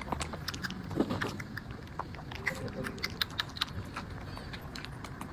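Tiny kitten drinking milk fast: a rapid, irregular run of small wet clicks and smacks from its mouth, several a second.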